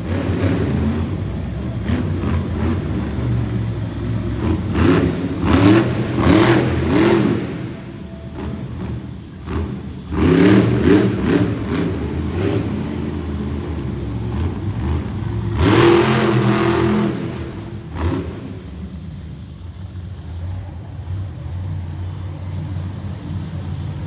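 Monster truck engine revving hard in repeated surges, its pitch rising and falling between steadier running.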